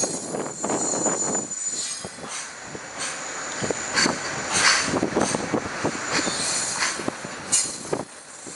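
Loaded container wagons of the JR Freight Super Green Shuttle Liner freight train running past close by. Wheels knock irregularly over the rail joints under a steady rolling rumble, with a high-pitched wheel squeal coming and going. The sound drops off briefly near the end.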